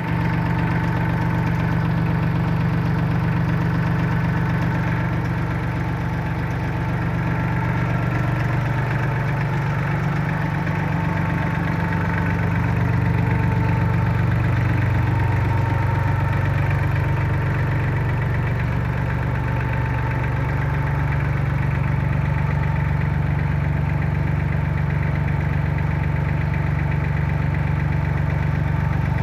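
Sonalika 4x4 tractor's diesel engine running at a steady idle, its pitch shifting slightly now and then.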